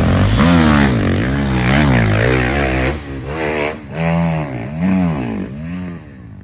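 Dirt bike engine revving up and down in repeated quick surges, louder for the first three seconds and then easing off.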